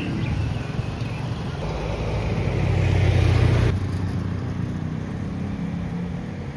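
Street traffic: a motor vehicle engine running close by, growing louder until about three and a half seconds in, then a quieter, steady engine hum.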